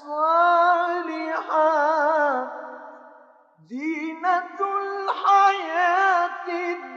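A male Quran reciter's voice in melodic recitation, drawing out long ornamented notes with vibrato. The voice fades out about three seconds in and comes back about half a second later on a rising note.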